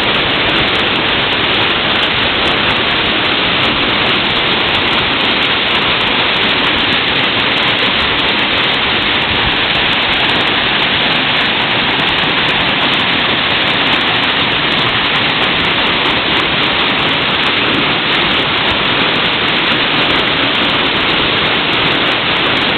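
Hiraya Ōtaki waterfall: a loud, steady rush of falling water.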